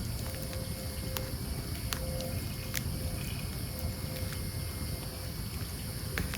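Wood campfire burning: a few sharp crackles and pops, about four, over a steady low rumble from the flames.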